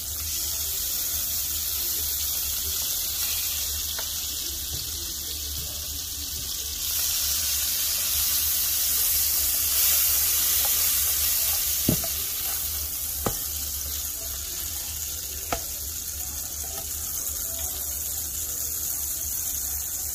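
Grilled cheese sandwiches frying in a hot ceramic nonstick pan: a steady sizzle that rises as liquid is spooned into the pan and grows louder about seven seconds in. A few sharp clicks sound around the middle.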